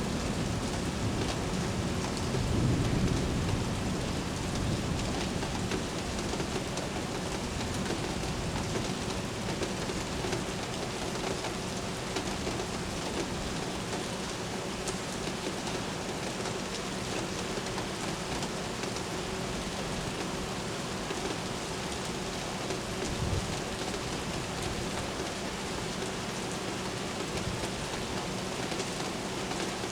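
Steady rain falling on hard surfaces during a thunderstorm, with a low roll of thunder in the first few seconds.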